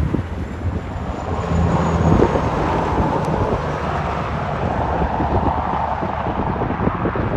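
Semi truck passing on the road. Its engine drone fades out about two seconds in, then a steady rush of tyre noise swells and eases.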